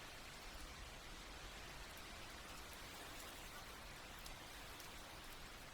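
Steady, faint rain falling on a tent, with scattered single drops ticking now and then.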